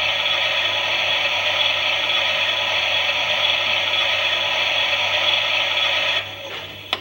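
Small motor of a toy Klein Miele washing machine whirring and rattling as it turns the drum during a wash. It stops about six seconds in, and a sharp click follows just before the end.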